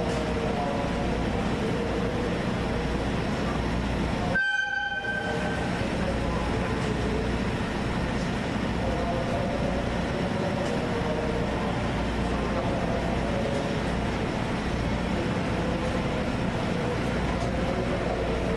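Steady rumble of a diesel-hauled passenger train standing at a station platform, with a short horn toot about five seconds in.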